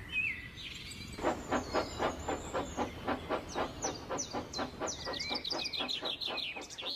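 Steam locomotive chuffing at a steady beat of about four or five chuffs a second, starting about a second in, with birds chirping.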